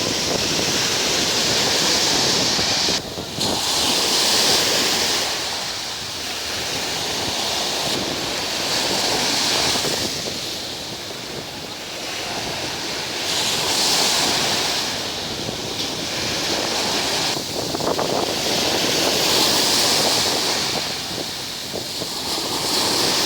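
Black Sea surf breaking on a sandy beach, the wash of the waves swelling and easing every few seconds, with wind buffeting the microphone.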